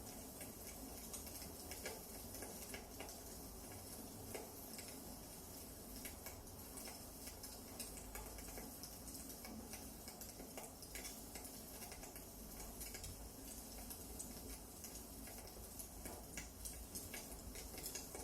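Firewood burning in a fireplace, with small irregular crackles and snaps over a faint steady hiss.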